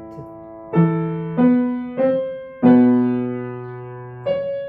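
Piano played slowly: a held chord fades, then about five more chords and notes are struck, low bass notes under a higher line, each ringing and dying away before the next.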